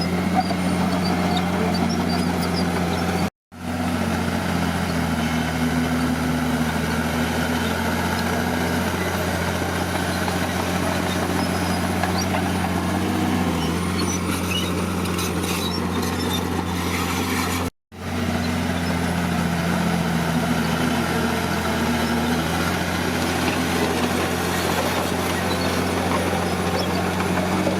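Diesel engine of heavy earthmoving equipment running under varying load, its pitch rising and falling as it works. The sound cuts out completely twice, briefly, about 3 and 18 seconds in.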